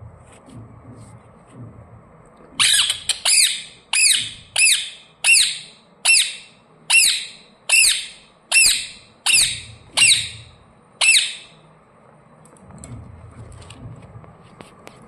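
Pet parrot giving a run of about a dozen loud, harsh squawks, one roughly every three-quarters of a second, before falling quiet about eleven seconds in.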